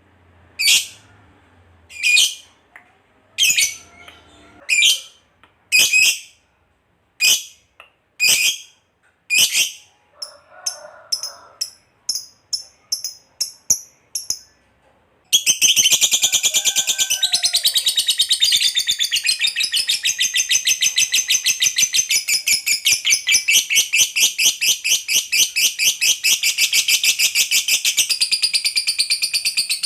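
Lovebird calling: loud, shrill single calls about once a second, then a faster run of short chirps. About halfway through it breaks into a long, unbroken rapid chattering trill, the 'ngekek panjang' that keepers prize.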